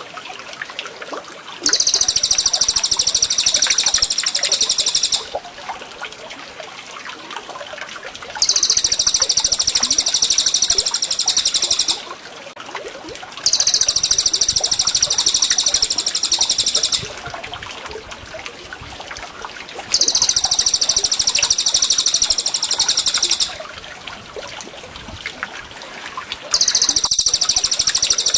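A songbird's loud, high, rapid trilling song comes in bursts of about three and a half seconds, repeating about every six seconds, five times. Trickling water runs steadily underneath.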